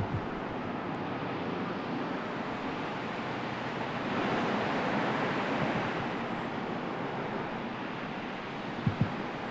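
Sea waves washing in, a steady rush with one wave surging louder about four seconds in and easing off by six. A couple of brief low thumps of wind on the microphone come near the end.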